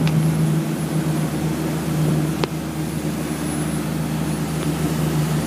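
Yanmar marine diesel engine of a 39-foot Mainship motor yacht running under way at cruise, around 3,000 to 3,300 RPM, as a steady drone. A single brief click about two and a half seconds in.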